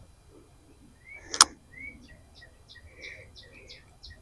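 A single sharp click about a second and a half in, typical of a spinning reel's bail snapping shut after a cast, followed by a run of faint short high chirps, about three a second.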